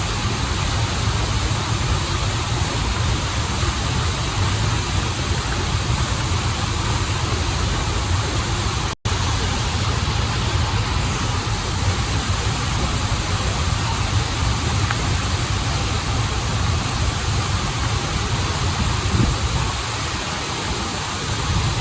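Steady rush of waterfall and river water, an even roar with a strong low rumble. It cuts out for an instant about nine seconds in.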